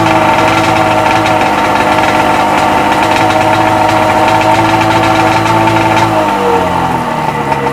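Rebuilt Sea-Doo XP 720's two-stroke twin engine running at raised revs, out of the water on a flush hose with the jet pump disconnected. About six seconds in, the revs fall away toward idle.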